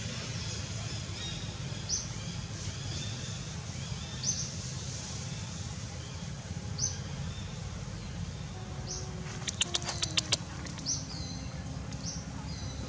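A bird giving a short, high chirp about every two seconds, with a quick run of five or six sharp notes about ten seconds in, over a steady low background rumble.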